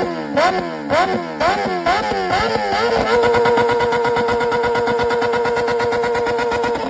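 Kawasaki sport bike's inline-four engine blipped in quick revs, about two a second, then held at a steady high rev for the last four seconds.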